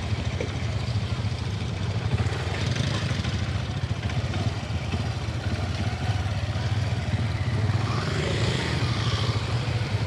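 Small 150cc motorcycle engine running steadily, with no revving.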